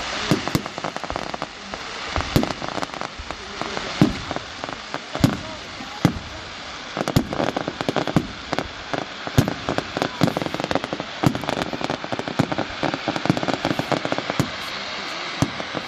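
Fireworks display going off: a rapid, irregular series of sharp bangs from bursting shells, several louder ones standing out, over continuous crackling.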